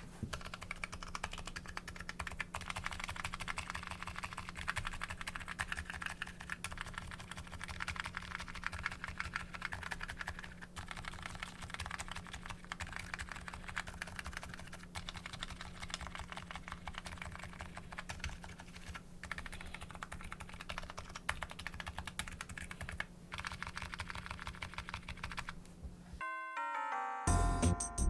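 Fast, continuous typing on a custom keyboard with MetaPulse electrocapacitive switches: a dense run of key clicks. About 26 seconds in, the typing cuts off and a short chiming musical jingle begins.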